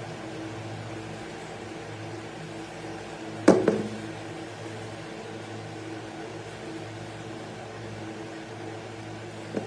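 Small 12-volt water pump motor running with a steady electric hum. A sharp knock with a short ring cuts in about three and a half seconds in, and a lighter knock comes near the end.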